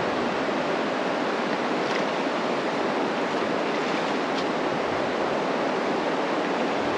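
Steady rush of fast-flowing river current running over a shallow, rocky bed.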